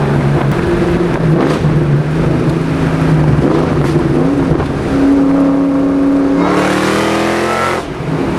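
2003 SVT Cobra's supercharged 4.6-litre V8 running steadily, then revving up about six and a half seconds in; the rise cuts off suddenly near the end. The owner takes the cut for something with the fuel rail pressure sensor.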